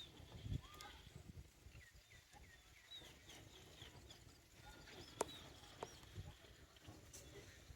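Faint bird chirps: many short, quick up-and-down calls repeating throughout. A sharp click sounds about five seconds in.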